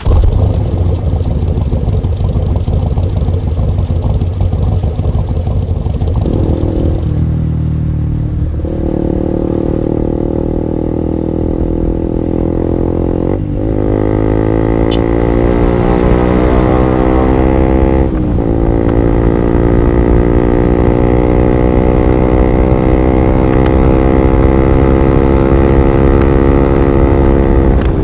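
Honda CB150R single-cylinder engine through an R9 Alpha Series aftermarket exhaust, running under way. After a rougher, noisier stretch, its exhaust note climbs steadily in pitch, dropping back briefly at two gear changes about halfway and two-thirds of the way through.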